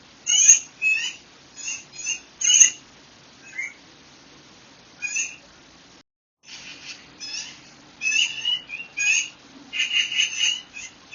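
Small songbirds chirping and singing in short warbled phrases, sometimes several in quick succession, over a faint steady background. About six seconds in, the sound drops out completely for a moment.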